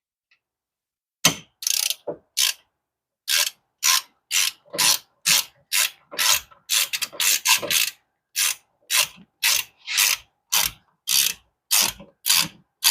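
Hand ratchet wrench clicking in short repeated strokes as a bolt is turned, settling into a steady rhythm of about two strokes a second after a brief pause.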